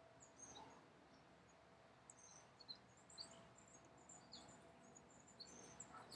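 Near silence, with faint, high bird chirps scattered throughout.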